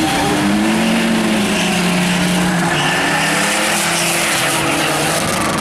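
A drag-race car's engine held at high revs, a steady loud note that eases down a little just under three seconds in, over heavy noise.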